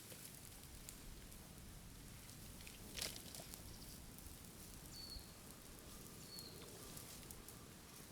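Bamboo burning in a bonfire, crackling faintly with scattered small snaps and one louder pop about three seconds in.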